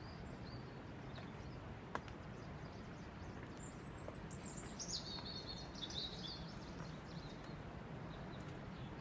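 Wild birds singing: high chirping calls, busiest from about three to six and a half seconds in, over a steady low background noise. A single sharp click about two seconds in.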